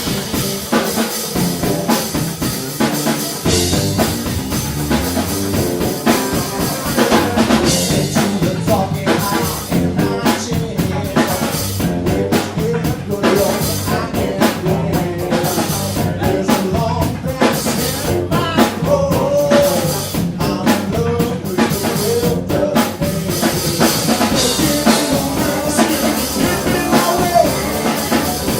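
A live band plays with a drum kit driving a steady beat, and a voice sings at times over the instruments.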